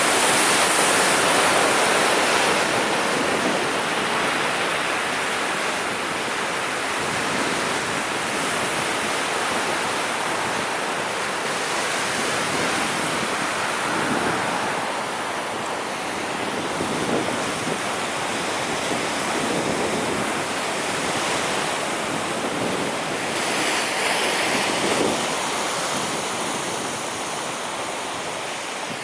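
Sea waves breaking and washing on the shore in a steady rushing surf, swelling and easing with each wave, loudest at the start; some wind buffeting on the microphone.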